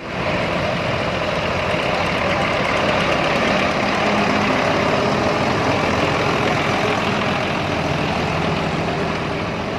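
Tractor diesel engine running steadily, easing off slightly near the end.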